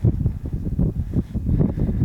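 Wind buffeting the microphone: an uneven, gusty low rumble that rises and falls several times a second.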